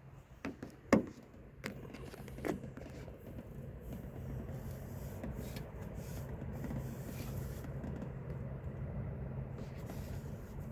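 Lancia Fulvia Coupé's narrow-angle V4 engine running at a steady idle on a cold start. A few sharp clicks and knocks come in the first two seconds, the loudest about a second in.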